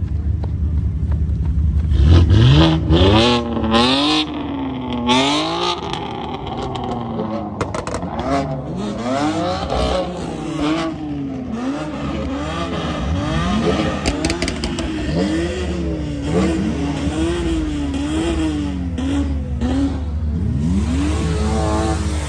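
Car engine revved hard over and over, its pitch rising and falling about once a second, over a steady low rumble. It is loudest a few seconds in.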